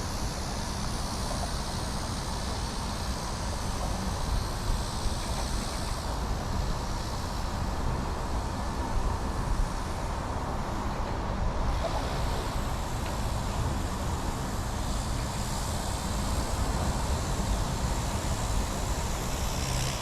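Steady low rumble of distant road traffic, with a few faint knocks about a quarter and half way through.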